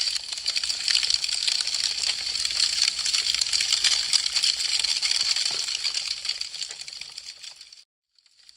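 Wood fire crackling, a dense stream of small sharp snaps. It fades away near the end into a moment of silence.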